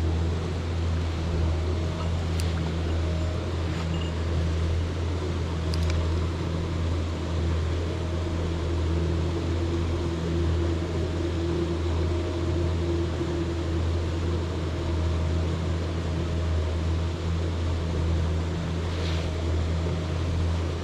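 Steady low rumble of a rushing mountain stream, with a few faint clicks over it.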